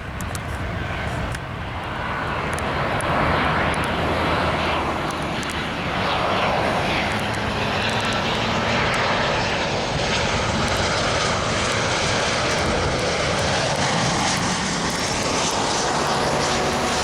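Jet engine noise from a Southwest Boeing 737-700 arriving, its twin CFM56-7B turbofans. It is a steady, loud rushing sound that swells about two seconds in and then holds level.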